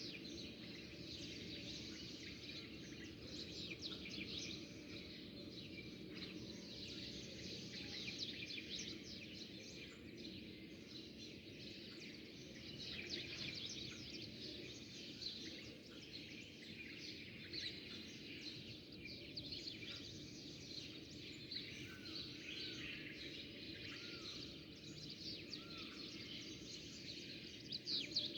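Flock of small birds chirping continuously, many short overlapping chirps at once, over a steady low background hum.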